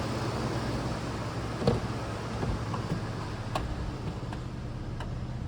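2011 GMC Canyon's 3.7-litre inline-five engine idling steadily, with a few sharp clicks. The loudest click comes about a second and a half in.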